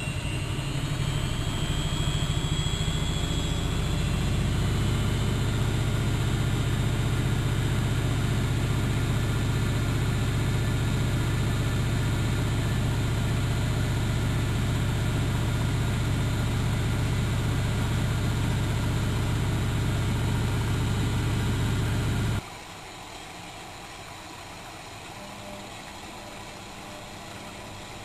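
Bauknecht WAK7760 washing machine spinning its drum: a steady, loud motor hum, with a whine that rises over the first few seconds as the drum picks up speed. About 22 seconds in the sound drops away suddenly, leaving a much quieter hum.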